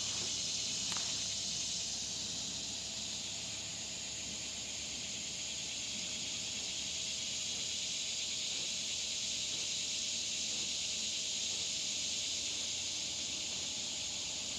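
A chorus of summer insects buzzing in a steady, high-pitched drone.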